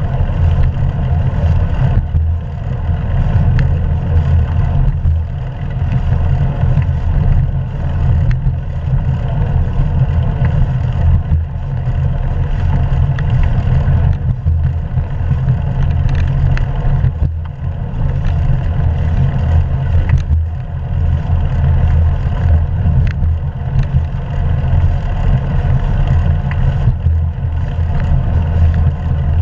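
Wind buffeting the action camera's microphone while riding a bicycle, a loud, steady low rumble, with the ride's road noise under it.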